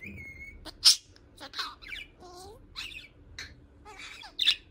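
Budgerigar chattering: a quick run of short chirps and scratchy squawks, the loudest about a second in and near the end.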